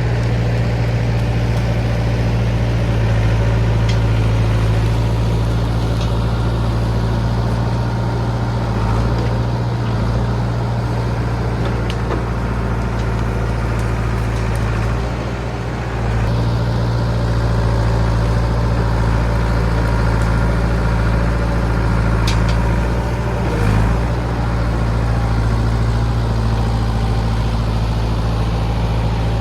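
John Deere 450B crawler dozer's diesel engine running steadily under load, easing off briefly about halfway through and then picking back up.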